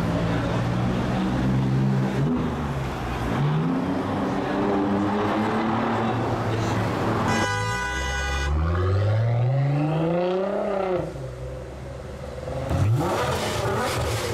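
Car engines idling and revving in a tunnel, then a car horn sounds for about a second. A 2017 Nissan GT-R's twin-turbo V6 revs up in one long rising sweep and drops back, and near the end a burst of sharp loud pops follows, typical of its anti-lag system.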